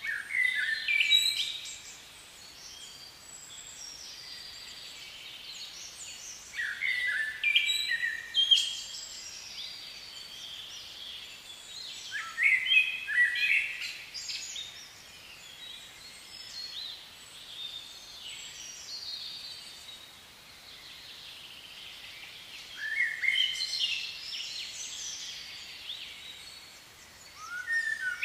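A songbird singing short, varied phrases that sweep up and down, five times a few seconds apart, over a faint steady outdoor hiss.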